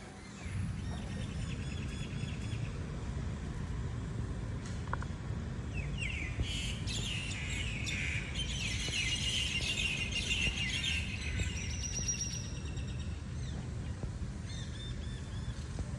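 Small songbirds chirping and singing in quick, overlapping trills, busiest through the middle stretch, over a steady low rumble.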